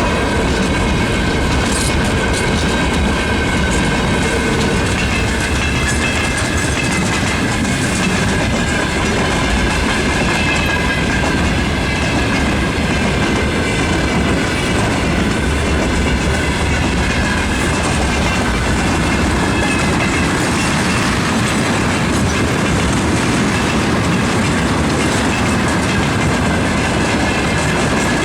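Freight train rolling past at speed: a steady, loud rumble of wagon wheels with clickety-clack over the rail joints and a thin high ringing squeal from the wheels on the rails.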